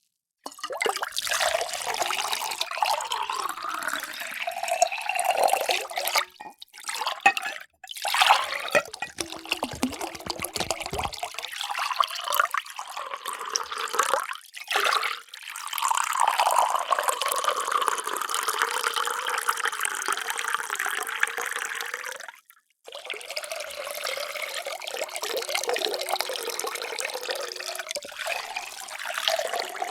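Water being poured into containers in a run of separate pours, each broken off by a brief silence, with splashing and gurgling and in places a pitch that rises as a vessel fills.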